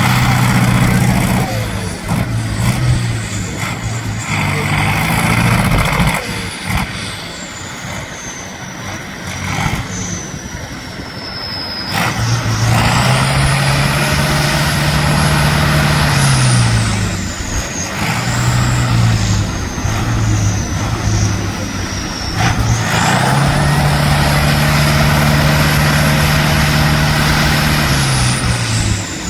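Trial truck's diesel engine revving up and holding high twice, each time for about five seconds, then dropping back, with a high whistle rising and falling along with the revs.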